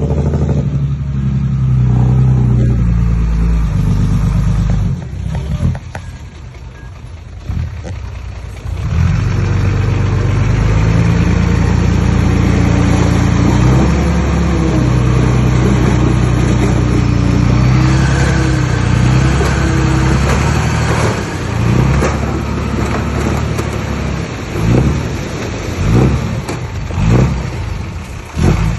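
Heavy diesel engine of earthmoving machinery working under load, its pitch rising and falling. It drops back a few seconds in, comes back loud about nine seconds in, and surges several times near the end.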